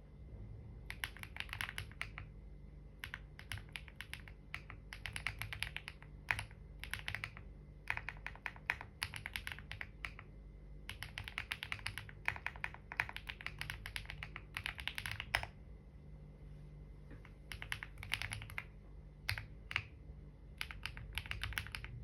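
Typing on a computer keyboard: quick runs of key clicks in bursts of a second or two, broken by short pauses, with a longer pause about two-thirds of the way through. A faint steady low hum sits underneath.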